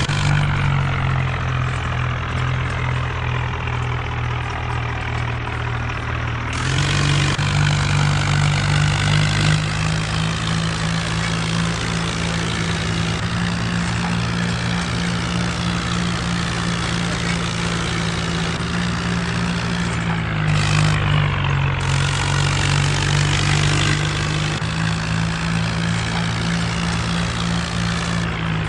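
Mahindra Arjun tractor's diesel engine running steadily under work. The engine note steps up about seven seconds in and shifts again around twenty seconds.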